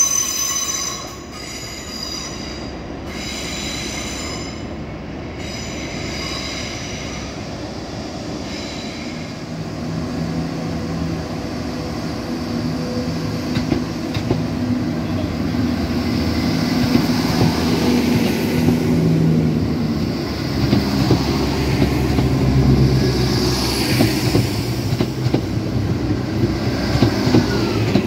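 Train wheels squealing on the rails for the first few seconds. Then a ScotRail Class 170 Turbostar diesel multiple unit runs into the platform, its diesel engines humming and growing louder toward the end.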